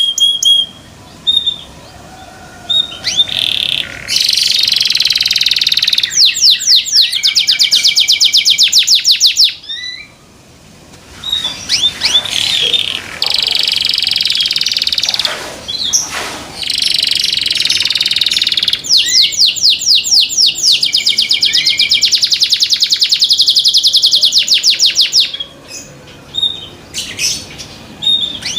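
Domestic canary singing loudly in long, high-pitched song phrases of rapid trills and rolls. The song comes in three stretches of several seconds each, separated by short pauses with scattered single notes.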